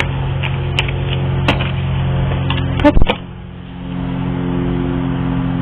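A steady low mechanical hum with a few sharp clicks and taps; the loudest taps come a little after the middle, when the hum briefly dips and then comes back.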